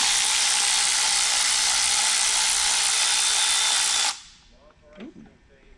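Air ratchet running in one continuous burst, a steady loud hiss of air with a faint whine, cutting off abruptly about four seconds in: spinning off a connecting-rod cap nut during an engine teardown.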